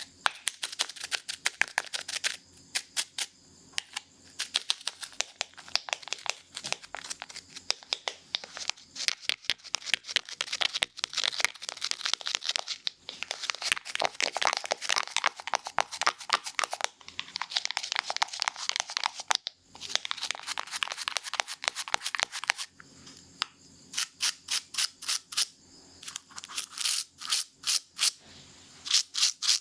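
Scissors snipping quickly and repeatedly close to the microphone, with stretches of denser rustling strokes in the middle.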